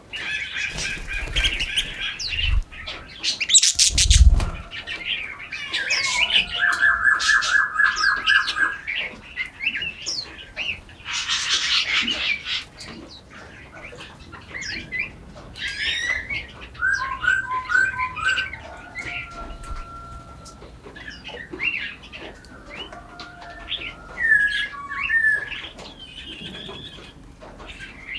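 Forest birds singing and calling, several at once: chirps, whistled glides and two quick trills of about ten repeated notes, with a harsh, noisy call about 11 seconds in. A short loud thump with a low rumble about 4 seconds in.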